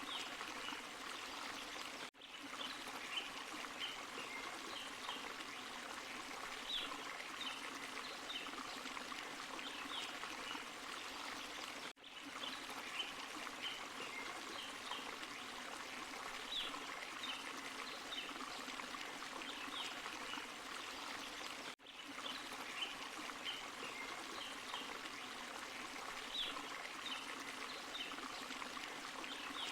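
Forest stream and small waterfall running steadily, with little splashes and trickles over the rush of water. The same stretch of about ten seconds repeats as a loop, with a brief dropout at each join, about two, twelve and twenty-two seconds in.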